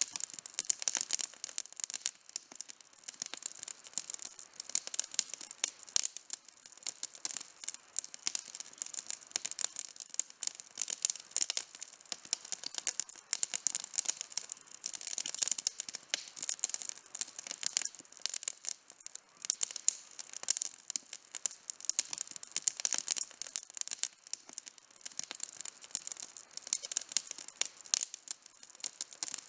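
Wood campfire burning, with dense, irregular crackling and popping throughout.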